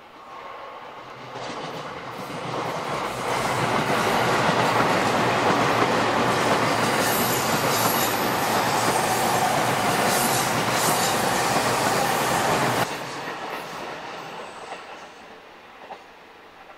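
An electric train on the Sobu Line passing through a curve. It swells over the first few seconds, runs loudly past with the rumble of wheels on rail, then drops sharply about 13 seconds in as the last car goes by, and fades away.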